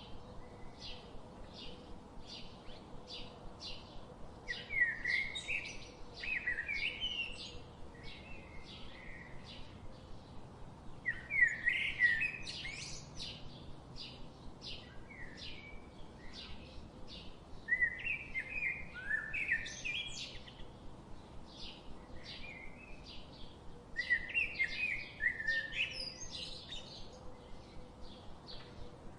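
Birdsong: a steady run of short, high chirps about two a second, with louder warbling song phrases breaking in every six seconds or so.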